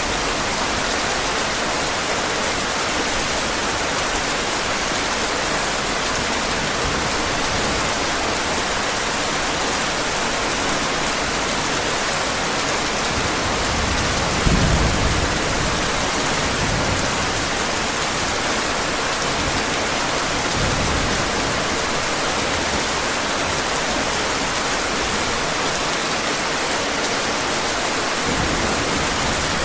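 Steady heavy rain, with low rumbles of thunder about halfway through, the first the loudest and two fainter ones after it.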